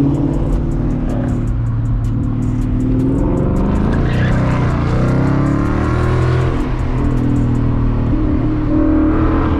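Ford Mustang GT's 5.0-litre V8 running through an MBRP Race exhaust while driving, the engine note climbing and dropping with the throttle.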